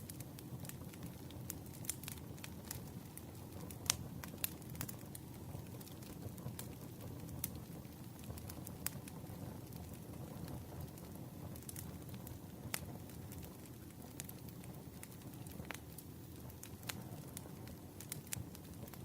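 Campfire burning: a steady low rumble with irregular sharp crackles and pops of the wood.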